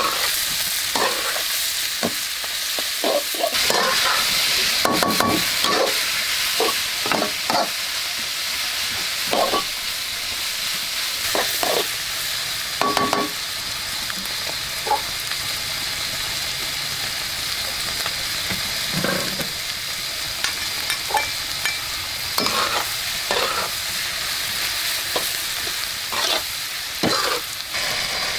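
Food frying and sizzling in a hot pan with a steady hiss, stirred with a utensil that clacks and scrapes against the pan many times.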